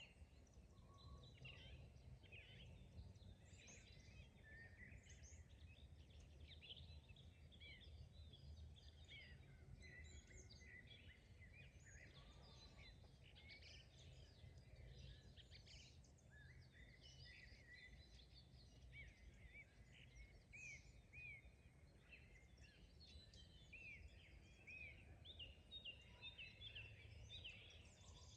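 Faint spring dawn chorus of many small songbirds, overlapping chirps and trills. A steady low rumble lies underneath.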